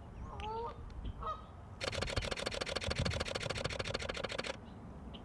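A Canada goose honks a couple of times, then a Canon R5 mirrorless camera fires a rapid continuous burst of shutter clicks for nearly three seconds before stopping abruptly.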